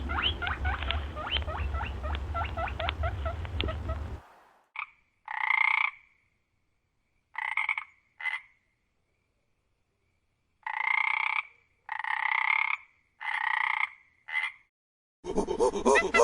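Frogs croaking: a dense chorus of quick chirping calls over a low hum for about four seconds, then a string of separate croaks, each about half a second to a second long, with gaps between. A different, louder animal call starts near the end.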